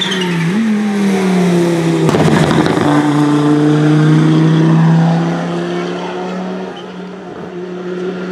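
Rally car passing at speed, its engine note rising with a gear change near the start. About two seconds in comes a short burst of noise, then the engine holds a steady high note and fades as the car drives away.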